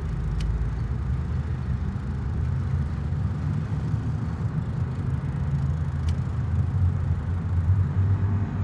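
Steady low rumble of a car on the move, a vehicle's road and engine noise.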